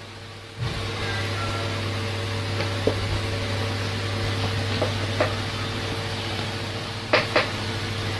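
Steady low machine hum, with a few light knocks scattered through it and two sharper clicks close together near the end.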